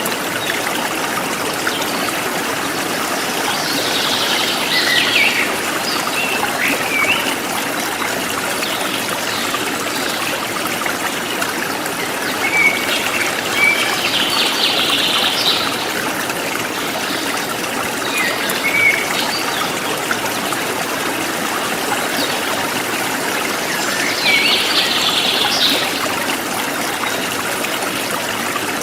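Forest stream running steadily, with birds chirping and trilling over it in three spells: about four seconds in, again around twelve to fifteen seconds, and near twenty-five seconds.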